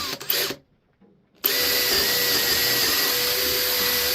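Electric drill boring a 3/8-inch dowel hole through a doweling jig into the board. It starts about a second and a half in and runs at a steady speed with a constant whine. A few brief rubbing handling sounds come just before it.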